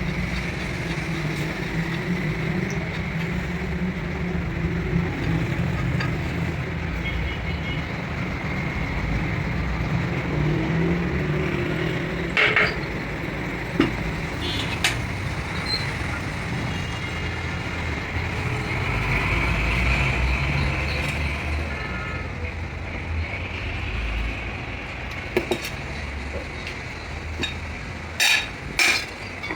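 A motor vehicle's engine running steadily with a low rumble, broken by a few sharp metallic knocks about halfway through and a quick run of them near the end.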